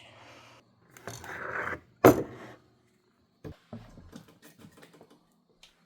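Rustling and rubbing of cloth with a sharper scrape about two seconds in, then a few light knocks and clicks: a kitten clawing and tussling at a person's clothes.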